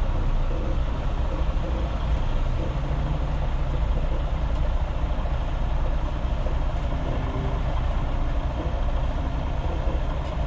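Semi truck's diesel engine running steadily at low revs while backing a trailer into a loading dock.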